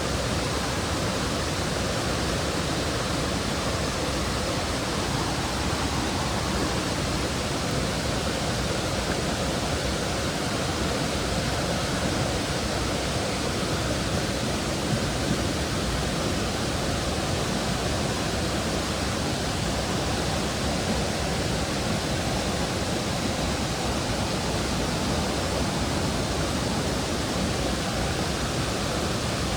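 Mountain stream water running steadily over rocks, a constant even hiss with no let-up.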